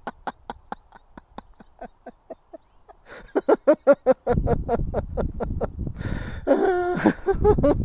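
A man's rapid staccato laughter, even 'ha' pulses about six a second in imitation of a chugging tractor engine, the 'tractor laugh' of laughter yoga. It grows louder about three seconds in and ends with a longer drawn-out laugh, over a low rumble.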